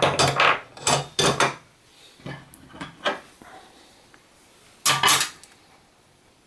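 Aluminum sheet metal and metal layout tools being handled on a bench: a run of sharp metallic clinks and short scrapes in the first second and a half, single knocks near two and three seconds in, and a loud double clank about five seconds in.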